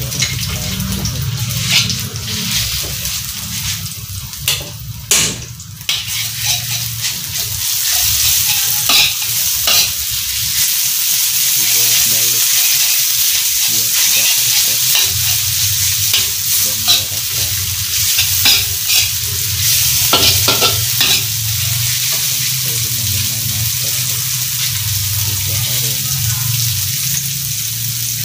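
Ground spice paste sizzling in hot oil in an iron wok while a steel spatula stirs it, scraping and tapping against the wok again and again, over a steady low hum.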